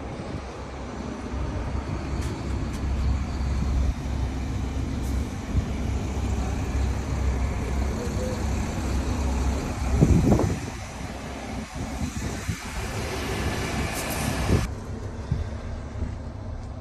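Heavy diesel truck engine (Weichai 460 hp) running with a steady low rumble. There is a loud knock about ten seconds in, and the higher hiss cuts off abruptly near the end.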